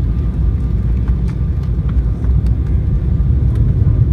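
Steady low rumble of airliner cabin noise inside an Embraer 195, with a faint steady whine above it.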